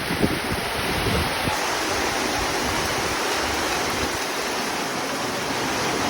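Heavy rain pouring down steadily, a dense even hiss, with some low rumble in the first second and a half.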